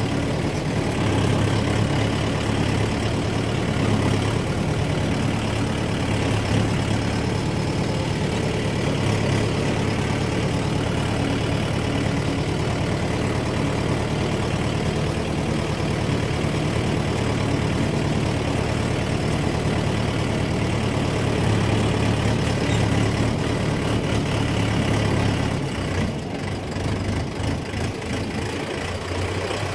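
Tractor engine running steadily with a deep, even hum. A few seconds before the end its sound dips and turns uneven, then steadies again.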